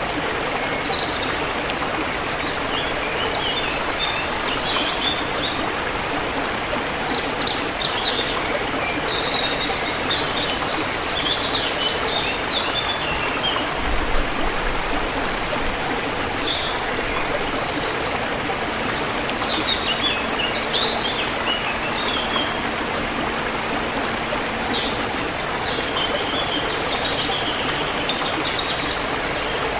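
A river flowing steadily, with birds chirping in short, high-pitched phrases every few seconds over the water.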